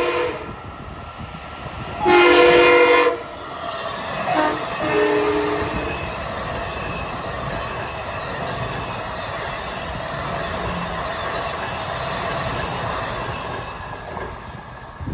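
Long Island Rail Road Budd M3 electric multiple-unit train sounding its horn: the tail of one blast, a loud long blast about two seconds in, then a short and a longer blast, the long-long-short-long pattern sounded for a grade crossing. The train then passes close by with a steady rumble and clatter of wheels on rail, which drops away near the end.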